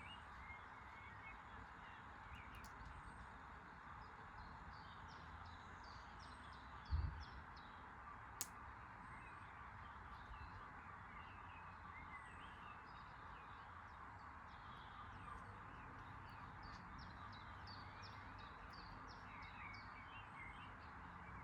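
Faint ambience: small birds chirping over a steady low hiss, with a single low thump about seven seconds in and a sharp click about a second later.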